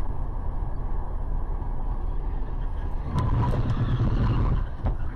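Car driving: steady engine and road rumble, growing louder about three seconds in, with a few sharp clicks.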